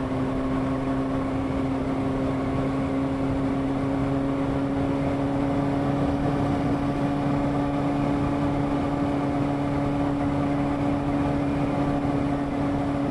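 Honda CBR600 F2's inline-four engine running at a steady, unchanging pitch, with wind and road noise.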